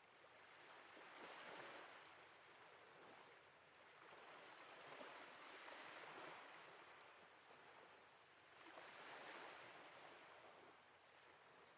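Very faint sea waves washing in, in three soft swells: about a second in, in the middle, and near the end.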